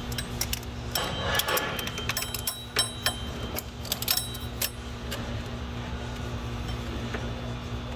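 Hand tools clicking and clinking against metal parts while a coolant hose is worked loose, in irregular light strikes that come thick in the first half and thin out after, over a steady low hum.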